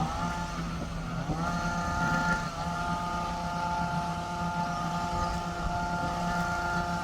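Loud machine running steadily, its motor whining in several tones that rise in pitch just after the start and again about a second in, then hold steady.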